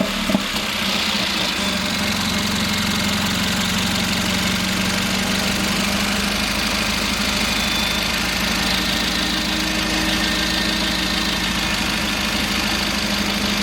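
Straight-piped Mercedes-AMG CLA45's turbocharged four-cylinder idling steadily through its open exhaust, just after start-up.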